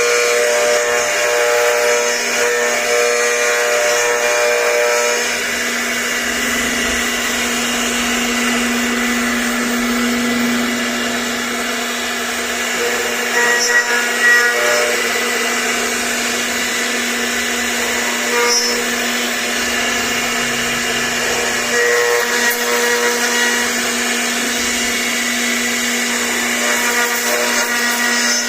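CNC router spindle running steadily with a high motor whine while the bit carves, the sound rising briefly a few times as the cut changes.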